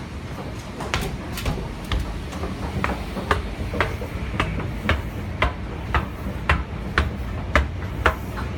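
Footsteps walking briskly on a hard floor, about two sharp steps a second, over a steady low rumble.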